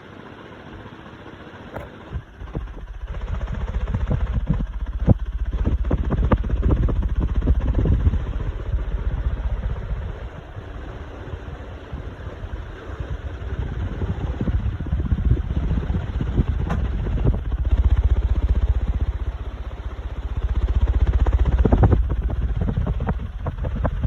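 Klarstein industrial ceiling fan running at high speed, its motor hum mixed with a rush of air that buffets the microphone in a low rumble, swelling and easing. It grows much louder about two and a half seconds in, with a few sharp clicks.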